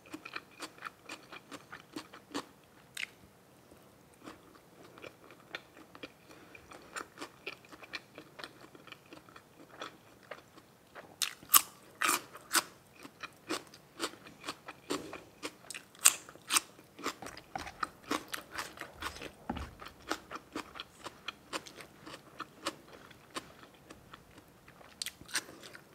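A person eating close to the microphone: wet chewing with sharp crunches and bites, steady throughout and loudest for a stretch about halfway through.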